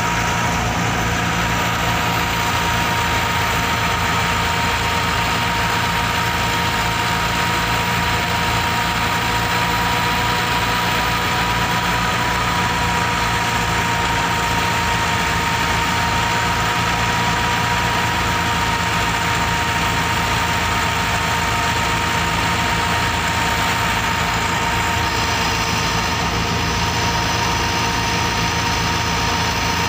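Massey Ferguson 385 tractor's diesel engine running steadily at idle, with a constant high whine over its low, fast pulsing.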